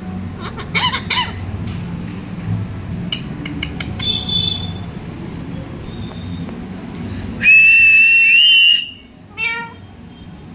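Pet parrot giving a few short chirps, then a long loud whistle that holds steady and bends upward at its end, followed by a short falling call.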